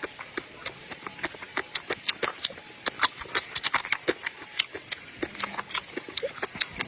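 A person eating close to the microphone: wet chewing and lip-smacking clicks, several a second at an irregular pace.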